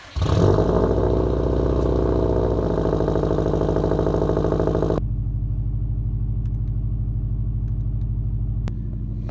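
Cold start of a 2011 Subaru WRX STI's freshly rebuilt EJ257 turbocharged flat-four: the engine catches from the starter right at the start and runs at a loud fast cold idle. The idle steps down about five seconds in and again near the end.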